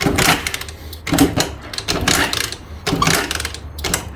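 Nikataz 200 motorcycle engine being turned over by pushing its kick-start lever by hand, about one stroke a second, without catching. The engine's very high compression makes each stroke hard going.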